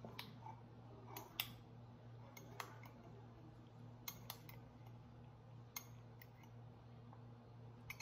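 A metal spoon clinking against a ceramic mug while stirring: a scattering of sharp, separate clinks a second or so apart, faint over a low steady hum.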